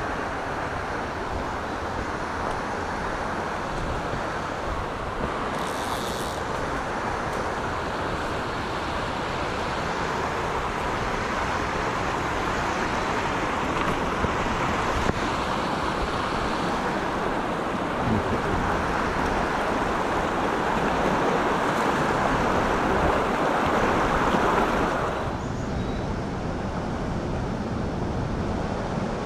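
Mountain stream running over rocks: a steady rush of water, which turns quieter and duller about 25 seconds in.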